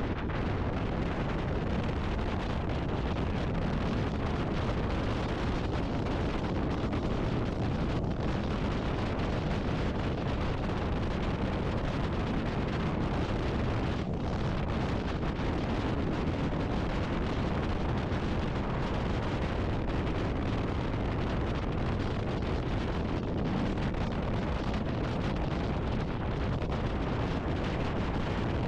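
Steady wind rush buffeting the microphone on a moving motorcycle, a dense low roar of wind and road noise.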